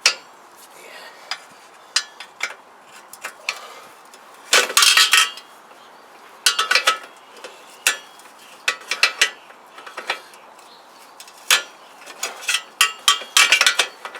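Metal hand tools clinking and rattling against each other in several short bursts of sharp clicks, as a socket or spanner is picked out and changed for a smaller size.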